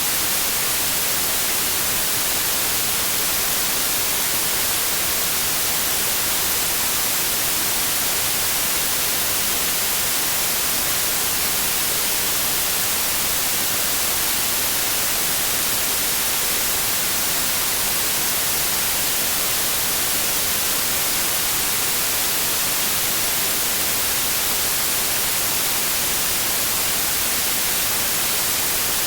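Synthetic white noise: a steady, even hiss with no pattern or change.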